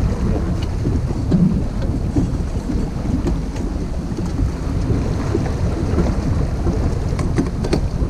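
Wind buffeting the microphone aboard a sailboat under way, a steady low rumble that rises and falls, with a few small clicks near the end.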